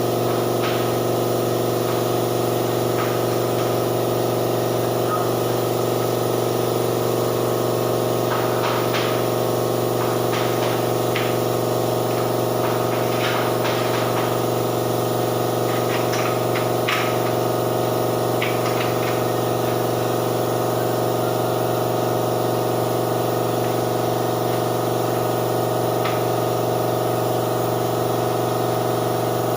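Spray-painting equipment running steadily: a motor hum with an even hiss of spraying, and a few short clicks in the middle stretch.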